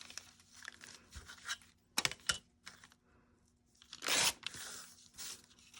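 Brown packing paper being handled and torn by hand: light rustling, a sharp tap about two seconds in, and a short loud rip about four seconds in.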